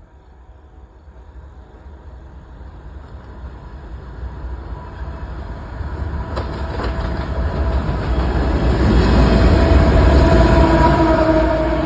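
CSX freight train's diesel locomotives approaching and growing steadily louder, with engine sound and wheels on the rails, loudest about nine to eleven seconds in.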